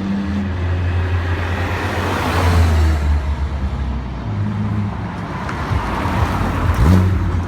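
Supercars passing at speed, their engine noise swelling to a peak about two and a half seconds in, with another car passing near the end.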